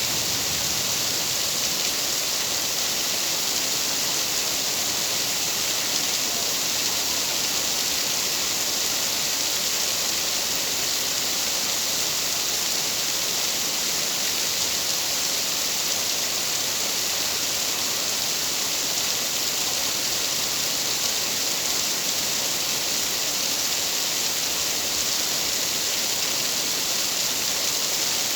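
Steady rain falling, a dense even hiss with no separate drops or breaks.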